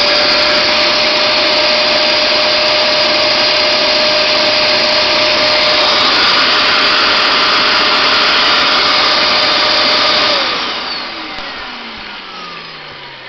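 Hoover Max Extract 77 carpet cleaner's suction motor running loud and steady with a whine, its recovery tank removed and the hose's suction outlet blocked. About ten seconds in it is switched off and winds down with a falling pitch.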